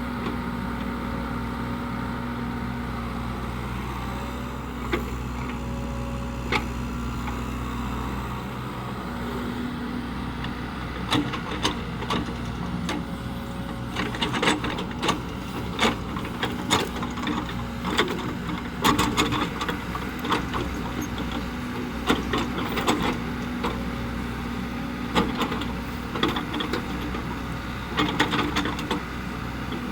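Diesel engine of a Cat 307E2 mini excavator running steadily, with many short, sharp clanks and knocks joining in from about a third of the way in as the machine works.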